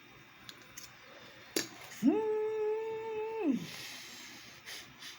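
A man humming an appreciative 'mmm' while eating: the pitch rises, holds level for about a second and a half, then falls away. A sharp click comes just before it.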